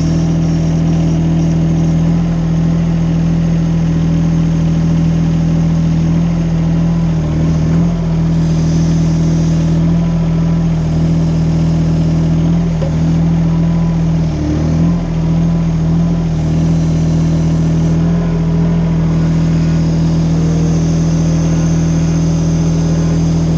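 Small Yanmar-powered mini excavator engine running steadily at high throttle, the note dipping briefly a few times as the hydraulics take load.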